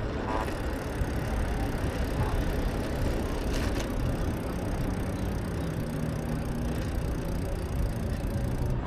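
Wind rush and road noise from a bicycle ride, with a motor vehicle's engine running close by from about halfway through.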